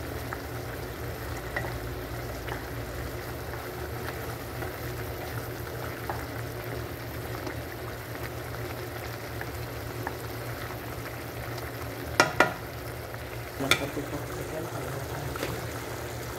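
Squid simmering and sizzling in a pan of bubbling soy-and-vinegar sauce as the sauce reduces, stirred with a wooden spatula, over a low steady hum. A few sharp knocks come about twelve and fourteen seconds in.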